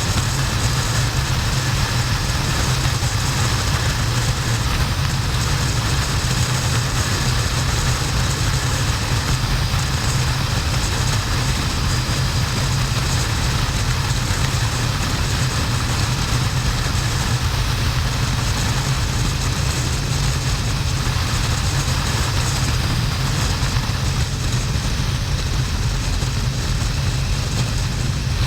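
2009 Harley-Davidson XL1200N's air-cooled V-twin engine running steadily under way, with heavy wind rush on the camera microphone.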